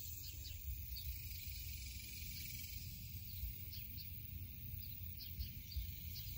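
Outdoor ambience: a steady low rumble with scattered short, high chirps, a few each second.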